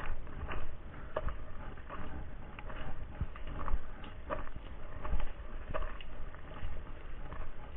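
Footsteps on a dirt trail at a steady walking pace, about three steps every two seconds, over a low rumble.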